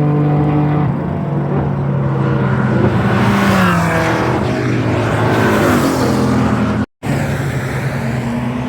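Cars running on a track: a steady engine note, then a car passes close by, its engine pitch sweeping down as it goes past. After a brief cut, another engine note rises slowly.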